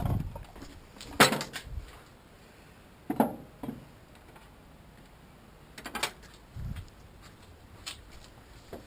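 A handful of separate knocks and clunks of work being handled, the sharpest about a second in, with dull low thumps near the start and about two-thirds through.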